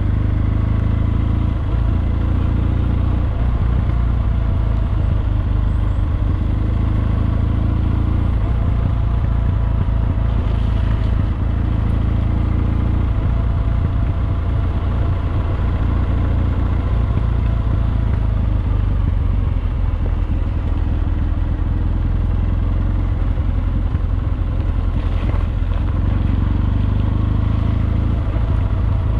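Kawasaki W650 air-cooled parallel-twin engine with a Wyvern Classic aftermarket exhaust, running steadily on the bike, with a deep rumble that holds even throughout.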